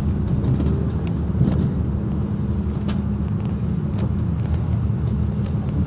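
Passenger train in motion heard from inside the carriage: a steady low rumble of the running gear, with a few faint clicks.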